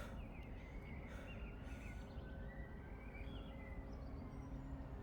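Faint bird chirps and short trills over a steady low outdoor rumble.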